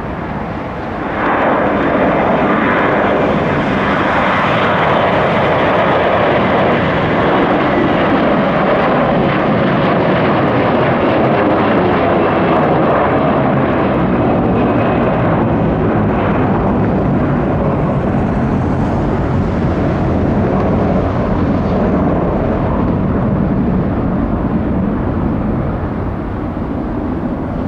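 Jet airliner taking off at full thrust: a loud, steady engine roar that rises sharply about a second in and holds, with slowly sliding tones as the aircraft goes by.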